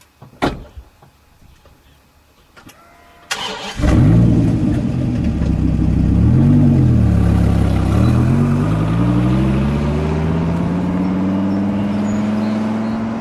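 Dodge Viper's V10 starting about three seconds in, revving up and down once, then pulling away with its engine note rising steadily as the car accelerates.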